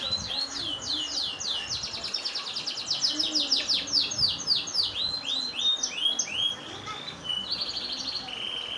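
Domestic canary singing a long, unbroken song: quick runs of repeated falling notes that change pattern every second or so, switching to a fast buzzy trill near the end.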